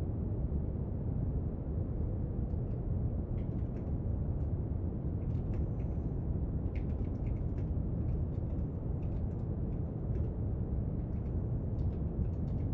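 Steady brown noise, a deep even rushing hiss, with faint scattered clicks and scratches of study at a desk over it.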